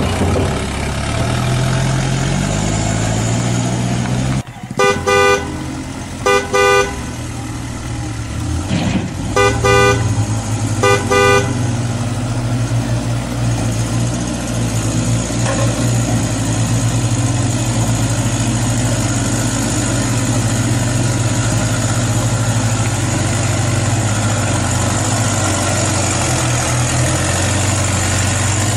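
RC Fuso dump truck's engine sound running steadily, with four short horn toots in two pairs a few seconds in. A high whine joins about halfway through.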